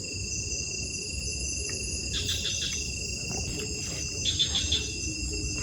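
A steady chorus of insects, crickets or similar, holding constant shrill tones. Two short bursts of rattling clicks stand out, about two seconds in and, louder, about four and a half seconds in.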